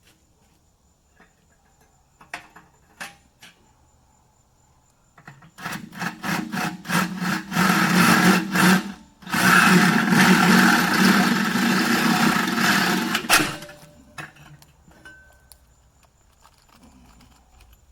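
DeWalt power drill boring a hole with an oversized bit: several short stuttering bursts of the trigger, then a steady run of about four seconds before it stops.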